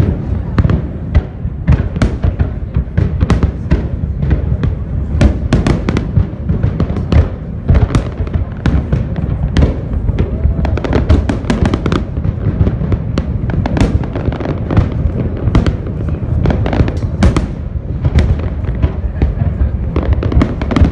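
Fireworks display with aerial shells bursting in quick succession: sharp cracks, several a second, over a continuous low rumble of booms.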